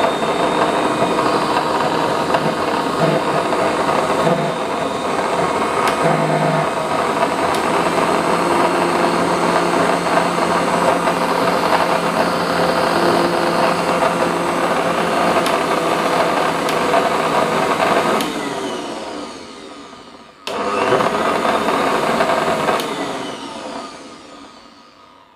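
Mixer grinder's universal motor running steadily at full speed, then switched off about 18 seconds in and spinning down. It is switched on again briefly a couple of seconds later and winds down again near the end. After the overhaul most of its noise is gone; the repairer says the armature and carbon brushes would need replacing to make it fully smooth.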